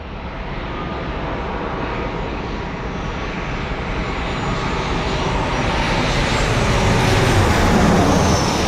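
Jet airliner's engines passing, a steady rushing noise that builds gradually and is loudest near the end.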